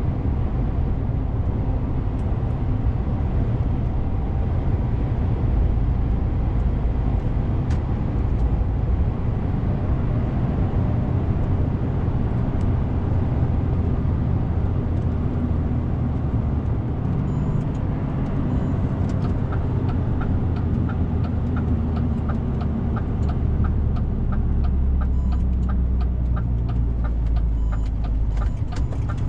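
DAF CF 450 truck's diesel engine and road noise in a steady low rumble while driving. About two-thirds of the way in, a regular ticking starts at about two ticks a second.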